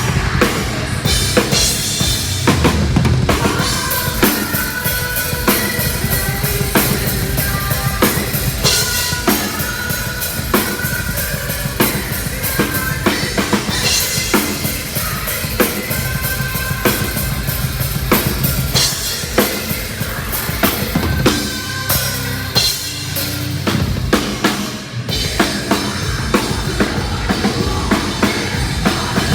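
Heavy metal band playing live, with a loud, dense drum-kit beat of bass drum and snare out front of the mix. The low end drops out briefly about 25 seconds in before the band comes back in.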